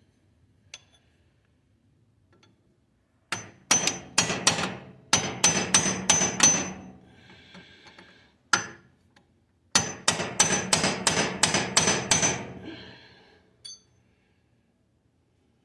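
A hammer striking a metal punch in two quick runs of about ten blows each, with a single blow between them and a high metallic ring. The blows are driving at a stuck part on a compact tractor's front drive shaft to get it moving.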